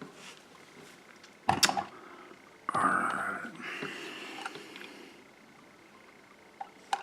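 Handling noises: a sharp knock about a second and a half in, then about a second of scraping or rustling, as containers and packing are handled.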